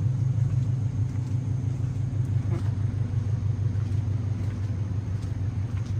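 A steady, loud low rumble with a faint hum above it, unbroken throughout.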